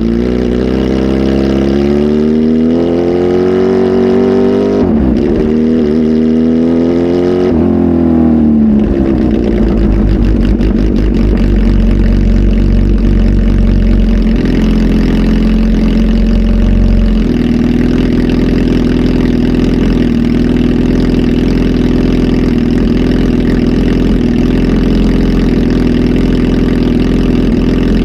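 Kawasaki Z H2 SE's supercharged inline-four, flash-tuned and breathing through a full aftermarket exhaust system, revved up slowly, dropped back, revved again and then allowed to settle back to a steady idle about nine seconds in.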